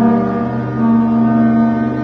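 Ship's horn blowing one long, steady blast, a low pitched tone rich in overtones, which dips briefly about half a second in and swells back.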